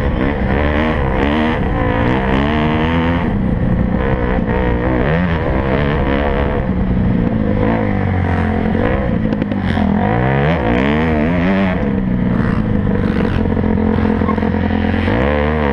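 Several motocross bike engines revving hard, their pitches rising and falling and overlapping as they accelerate and shift through the gears.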